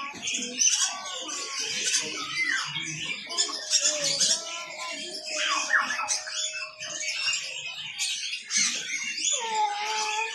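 Many caged birds chirping and squawking at once in a dense, overlapping chatter. A steady, whistle-like tone is held for a few seconds in the middle.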